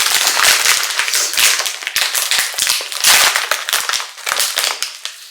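Crinkly plastic snack bag of a sesame snack being handled and pulled open: a dense crackling with many sharp clicks that thins out near the end.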